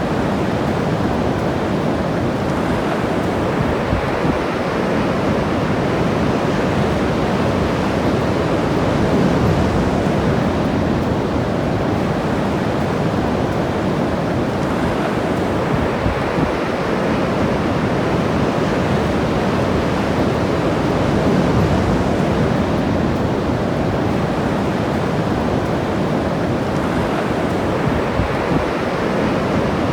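Ocean surf breaking and washing steadily on the shore, rising and falling gently every several seconds, with some wind on the microphone.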